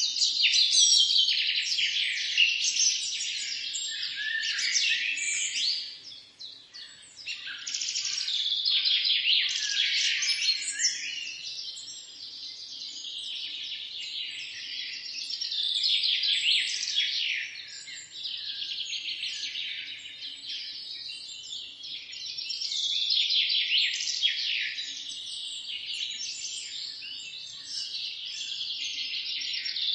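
A chorus of many small birds singing and chirping at once: dense, overlapping high chirps and trills, with a brief lull about six seconds in.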